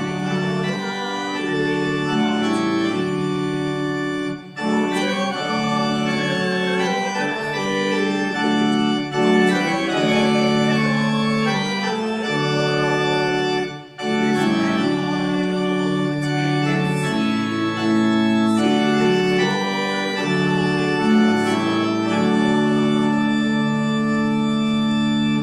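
Organ playing sustained chords in a slow prelude, with brief breaks about four and fourteen seconds in; the music stops at the end.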